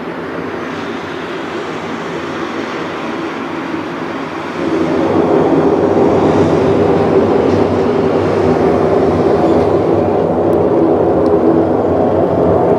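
Loud, steady low rumbling drone with faint held tones running through it. It steps up in loudness about four and a half seconds in.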